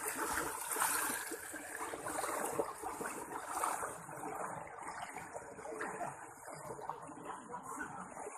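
Rushing water of a river in flood, a steady noisy rush that slowly grows fainter.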